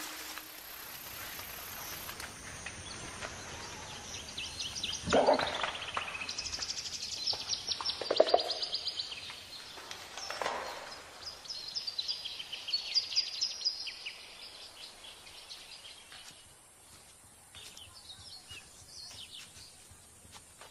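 Wild birds calling over a steady natural background: rapid high trills and chirps, with a few louder calls sliding down in pitch, thinning out in the last few seconds.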